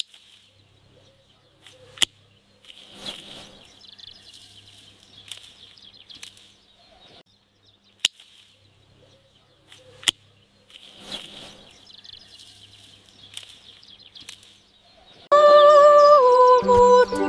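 Birds chirping in the background, fairly quiet, with a few sharp clicks. About fifteen seconds in, loud melodic music starts and takes over.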